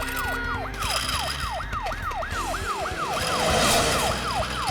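Cartoon ambulance siren sounding in quick rising-and-falling sweeps, about three a second.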